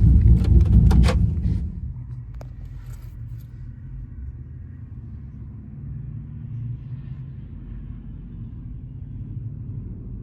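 Low vehicle rumble, loud with a few sharp clicks for about the first second and a half, then dropping to a steady, quieter rumble.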